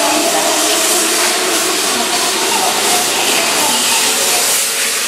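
A Keihan electric commuter train running at speed along a station platform, a steady loud rush of wheels on rails with a few humming tones in the first few seconds.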